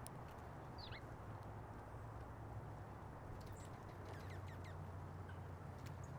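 Faint, short chirps of small birds at a feeder: one descending chirp about a second in, then a quick cluster of chirps and ticks near the middle, over a steady low rumble.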